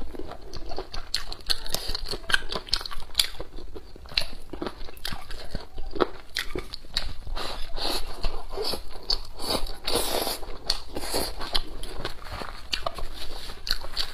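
A person chewing and biting mouthfuls of spicy braised pig intestines and duck feet, close to a clip-on collar microphone. The chewing comes as many short, irregular wet mouth clicks.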